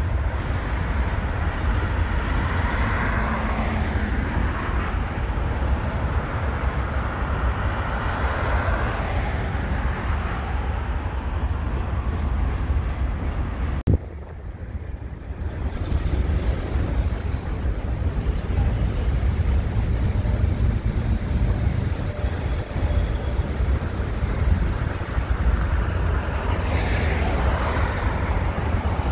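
CSX freight train of hopper cars rolling across a concrete railway overpass: a steady, loud rumble of wheels on rail, with street traffic beneath. The sound drops suddenly about halfway through and builds back over the next couple of seconds.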